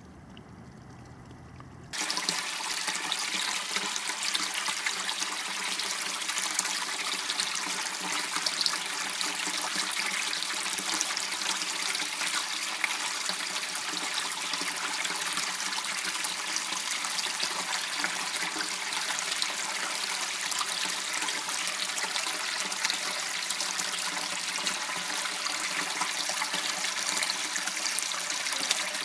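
Water running and trickling steadily in a small waterway, starting suddenly about two seconds in after a low, quiet rumble.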